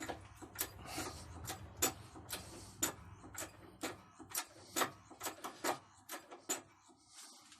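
Workshop press being worked to press a part into a KAMAZ hydraulic cylinder: a run of short sharp metallic clicks, about three a second and unevenly spaced, that stops near the end.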